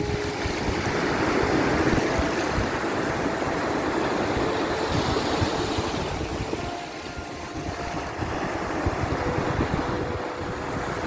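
Ocean surf: waves washing in and drawing back in slow swells, with a low rumble underneath. A few faint held tones sound over it.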